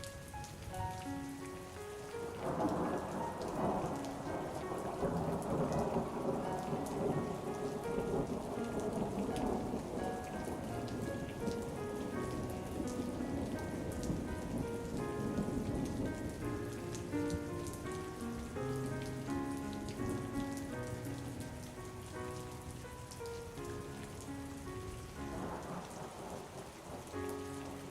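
Steady rain with rolling thunder, a long rumble swelling about two seconds in and another near the end, over a soft, slow melody of single held notes.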